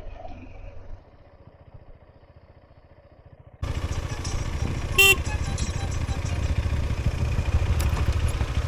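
Motorcycle engine, a KTM Adventure 250 single, idling quietly with a low pulsing beat. Then a sudden jump to much louder riding sound of engine and wind rush, with one short horn toot about five seconds in.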